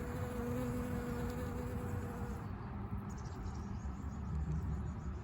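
Honeybee buzzing close by, a steady hum that stops about halfway through, over a low steady background rumble.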